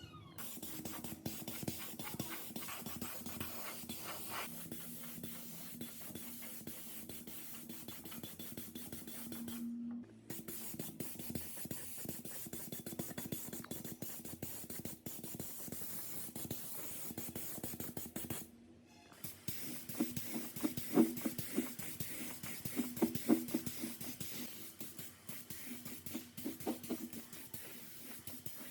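Rapid, uneven scraping and rubbing over a low steady hum, breaking off abruptly twice.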